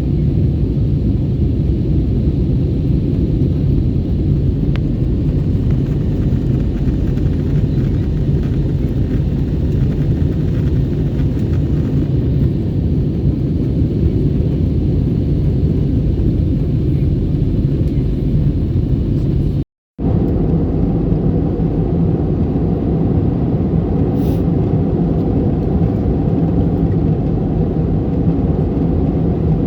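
Steady low rumble of an Airbus A321neo airliner, engine and airflow noise heard from inside the cabin. The sound drops out completely for a moment about twenty seconds in, then carries on a little brighter.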